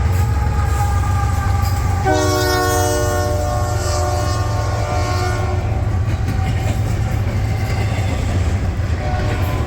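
Diesel freight train running past with a steady low drone, its multi-chime air horn sounding about two seconds in, held for about three seconds and then fading.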